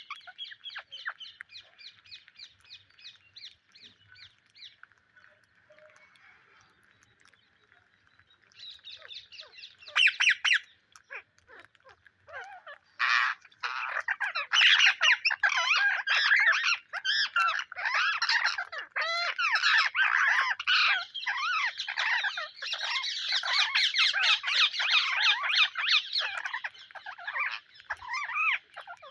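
Psittacula parakeets calling: soft, rapid chattering at first, then from about eight seconds in building to loud, dense, overlapping screeching for the rest of the stretch.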